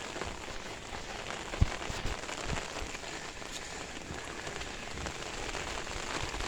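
Steady rain falling outdoors, an even hiss of drops hitting surfaces, with a single short thump about a second and a half in.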